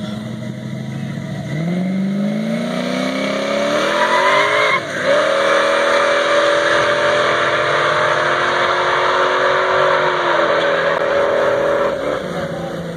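Boxy sedan on 26-inch wheels launching down a drag strip: its engine idles, then revs up with a rising pitch as the car pulls away. There is one gear change about five seconds in, then it holds a steady high-revving note until it eases off near the end.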